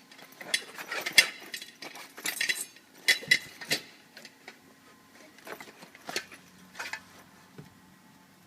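Metal clicking and clinking as the Bag Shag retriever's metal plate and the new bag's wires are handled. There is a quick cluster of clicks in the first four seconds, then scattered single clicks.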